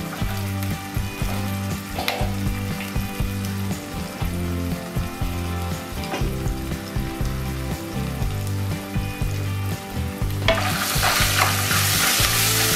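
Hot oil in a non-stick wok sizzling quietly around fried onion and ginger-garlic paste, the stove just turned off. About ten seconds in, a wooden spatula starts stirring the paste into the oil and the sizzle turns loud and bright.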